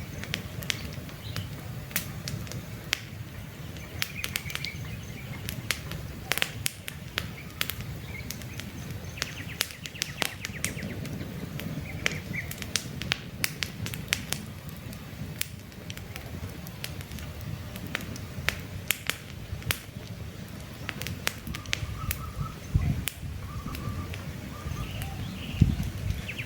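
Campfire crackling, with frequent sharp pops over a low steady rumble. Birds chirp faintly now and then.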